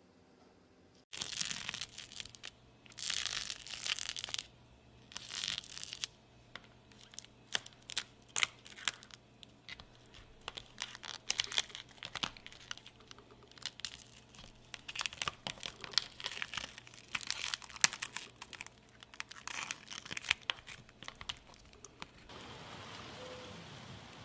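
Homemade slime being squished and stretched by hand: sticky crackling with many small irregular clicks and pops, starting suddenly about a second in.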